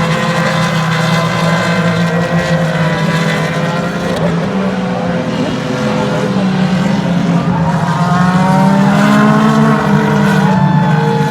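IndyCar race cars' 2.2-litre twin-turbo V6 engines running at low revs as several cars go by, their pitches slowly rising and falling and overlapping: cars circulating after the chequered flag.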